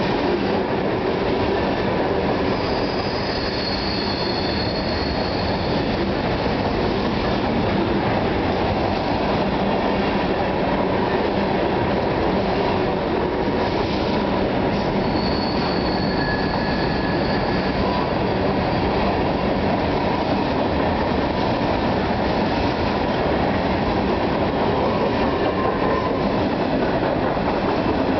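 CSX freight train's covered hopper cars rolling past close by at speed: a steady roar and rattle of wheels on rail. Faint high wheel squeals come in briefly a few seconds in and again about midway.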